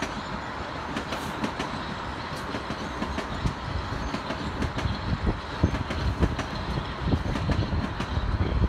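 Metro-North electric commuter train passing along the tracks below, a steady rumble with irregular clacks of the wheels over the rail joints.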